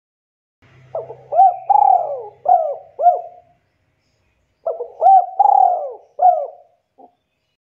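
Spotted dove (tekukur) singing: two phrases of several rolling coos, the second starting about a second after the first ends.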